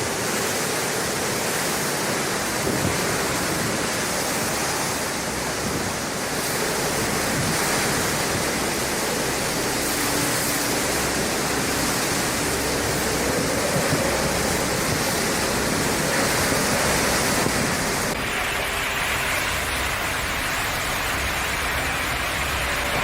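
Steady, loud rushing noise of heavy water, with no pitched sound in it, changing character about 18 seconds in.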